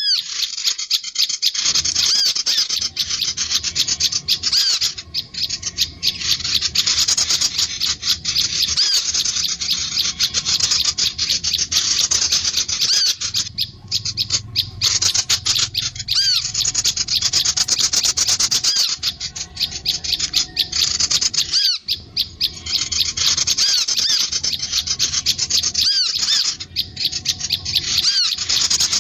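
Rapid high-pitched chattering and chirping of small songbirds, in a near-continuous stream with a few brief breaks. It is a recorded call of the kind played to lure birds down.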